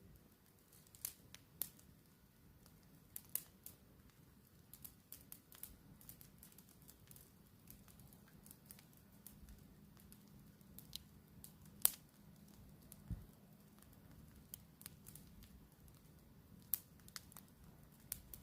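Campfire crackling faintly, with scattered sharp pops and snaps at irregular intervals.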